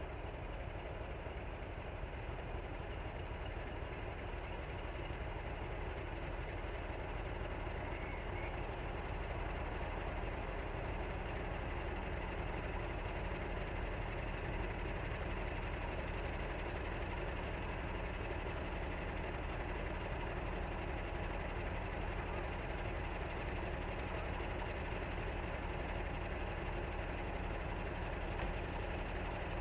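Diesel locomotive engine running steadily, with a low, even engine note that grows slightly louder over the first several seconds and then holds.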